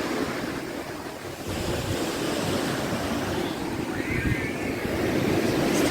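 Wind rushing over the microphone on an open chairlift, a steady blustery noise with low rumbling buffets.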